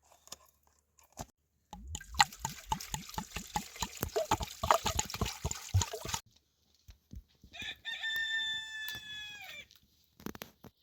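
A rooster crowing once, one long call of about two seconds near the end whose pitch drops as it finishes. Before it comes a rapid run of knocks and clatter lasting about four seconds.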